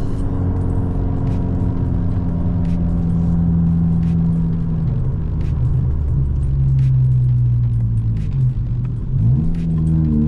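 VW Golf Mk5 1.4 FSI four-cylinder petrol engine running while driving, holding a steady note. About halfway through the pitch steps down, and near the end the revs briefly dip and climb again as the speed changes.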